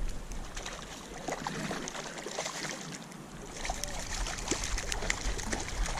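Shallow water splashing and lapping with scattered small clicks, and a low wind rumble on the microphone from about halfway through.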